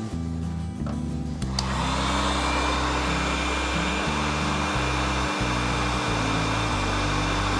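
Electric heat gun switched on about one and a half seconds in, its blower then running steadily. Background music plays throughout.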